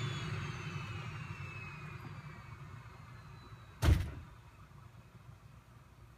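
Ford turbo-diesel pickup's turbocharger whistle falling in pitch and fading as the turbo spins down, over a faint low hum. About four seconds in comes a single loud slam, like a truck door shutting.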